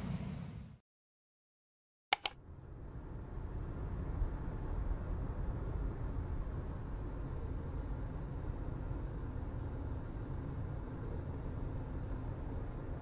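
Two sharp clicks about two seconds in after a moment of silence, then the steady low rumble of a vehicle driving.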